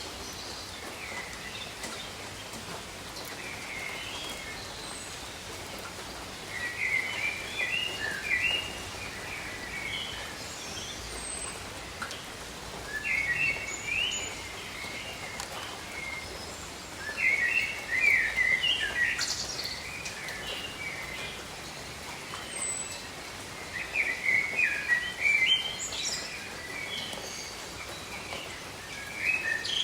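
Steady rain hiss with a songbird singing short chirping phrases, repeated about every five seconds.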